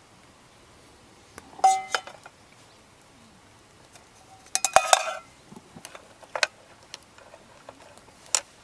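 Metal camp cookware and utensils clinking as they are handled: a few sharp clinks with brief ringing, the loudest clusters about two seconds in and around five seconds in, then single clinks near six and a half seconds and near the end.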